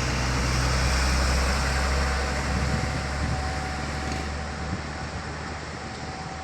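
Heavy diesel vehicle passing close by, its low engine rumble fading away after about two and a half seconds, leaving steady traffic noise; a thin steady tone sets in about four seconds in.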